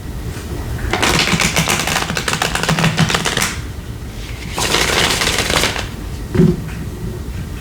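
Tarot cards being shuffled: a fast flutter of cards lasting about two and a half seconds, then a second shorter flutter, followed by a single thump near the end.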